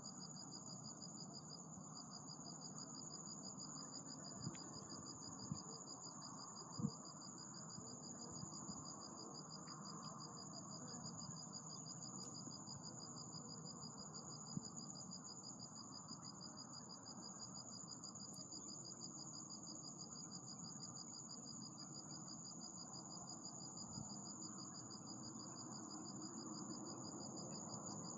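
Insects trilling steadily: two high, continuous, finely pulsing trills at slightly different pitches, over a low background hiss, with a few soft knocks in the first several seconds.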